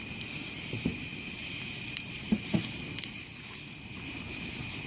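A steady chorus of crickets chirring in high, unbroken tones, with a few sharp pops and crackles from a campfire burning wood.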